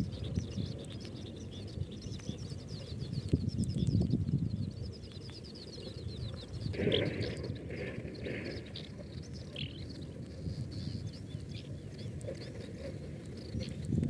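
Wild birds chirping and calling, with a fast high trill in the first half and a louder call of three or four notes about seven seconds in, over a low, fluctuating rumble.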